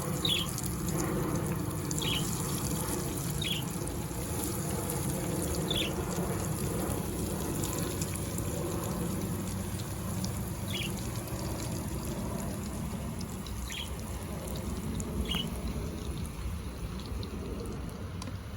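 Breaded chicken cutlets frying in hot oil, a steady sizzle. About seven short, high chirps from a small bird sound now and then over it.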